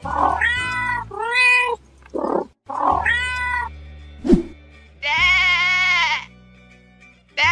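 Cartoon animal sound effects: a cat meowing three times, a short thud about four seconds in, then one long wavering sheep bleat, over a steady low music drone.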